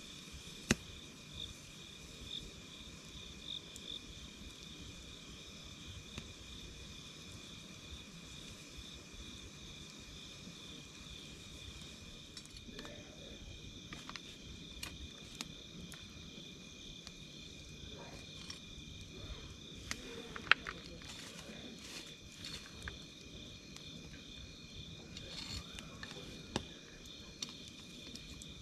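Night insects chirping steadily in two high pitches, one pulsing rapidly, with a wood campfire giving scattered sharp crackles and pops, the loudest about twenty seconds in.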